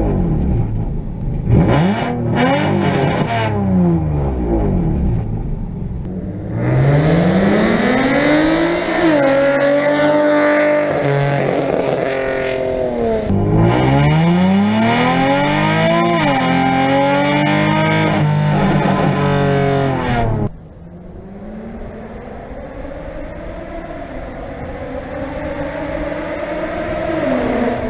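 Nissan 350Z's 3.5-litre V6 through a straight-pipe exhaust (shorty headers, test pipes, a single 3-inch pipe with one small resonator), revving: quick blips up and down at first, then longer climbs and falls in pitch. About two-thirds of the way through the sound drops suddenly quieter and duller, and the engine note then climbs slowly.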